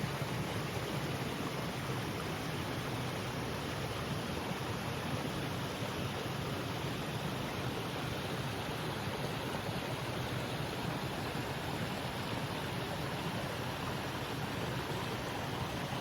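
A stream of running water, a steady even rush with no distinct splashes or other events.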